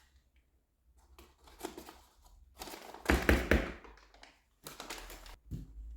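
Kitchen items being handled and set down on a counter: a series of short taps and knocks, loudest in a quick cluster about three seconds in.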